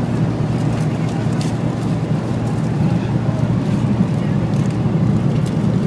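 Steady low drone of a Boeing 777's cabin in flight: engine and airflow noise, even throughout.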